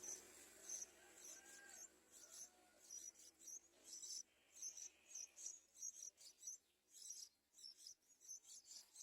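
Faint, high-pitched chirping: short chirps repeating steadily about two or three times a second.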